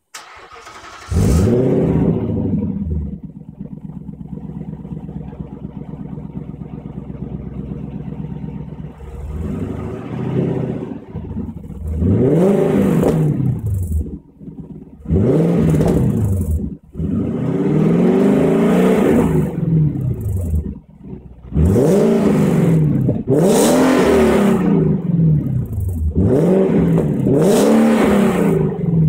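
Infiniti FX50S's 5.0-litre V8 through a Magnaflow aftermarket exhaust, starting with a flare about a second in, idling steadily, then revved in about eight short blips, each rising and falling back.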